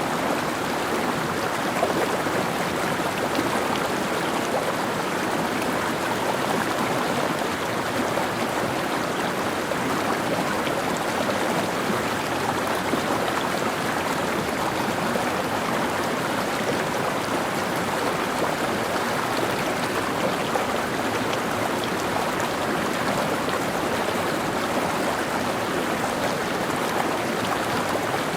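Mountain stream running over rocks: a steady, even rush of flowing water with no change throughout.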